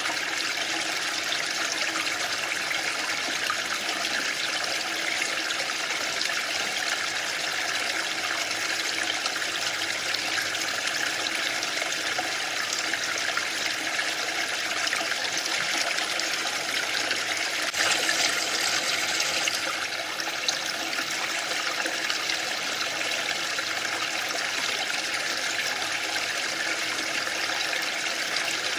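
Waterfall rushing in a steady, even roar of falling water, with a brief louder surge about two-thirds of the way through.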